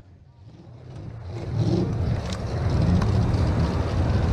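Low engine rumble, fading in from near silence over the first second or two and then holding steady, with a few faint clicks.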